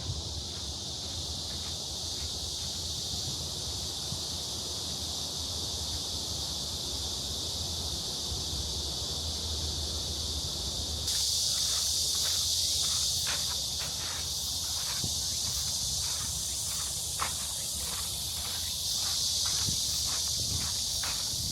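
Steady, high-pitched insect chorus from the trees, getting louder about halfway through and again near the end. From the middle onward there is a run of footsteps along a path.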